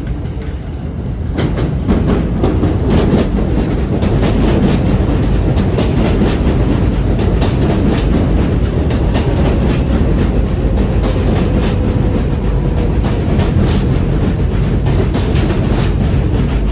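R188 7 subway train running into the station. It grows louder about a second and a half in, then holds steady, with wheels clacking over the rail joints throughout.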